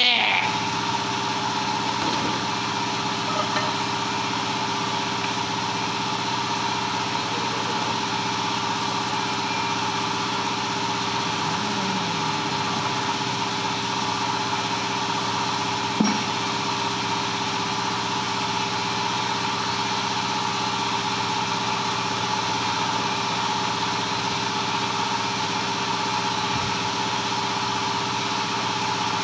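An engine running steadily at constant speed, an unchanging hum, with one short knock about 16 seconds in.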